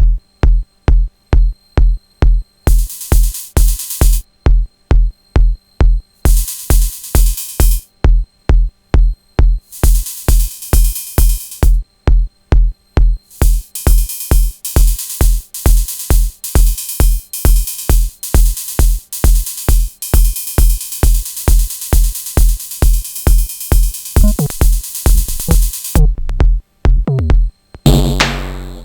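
Sonic Potions LXR-02 digital drum machine playing a techno groove: a steady kick about twice a second, with bright hi-hat-like percussion coming in and out in blocks, then held for a long stretch from about halfway through. Near the end the beat briefly drops out under a sliding bass sound before the full groove comes back in.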